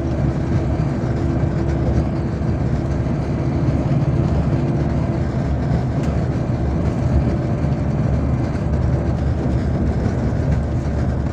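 MAZ-257 bus heard from inside the passenger cabin while driving: a steady low rumble of engine and road noise. A faint, even tone in the hum fades out about three seconds in.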